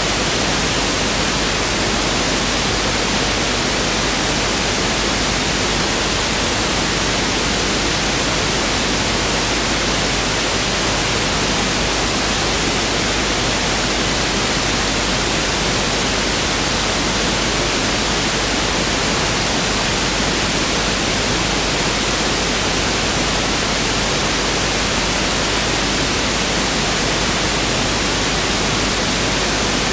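Pink noise test signal: a steady, even hiss across the whole range, with equal energy per octave, unchanging throughout.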